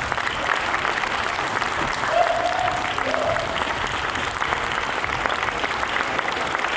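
Audience applauding steadily, with a brief held vocal call rising above the clapping about two seconds in.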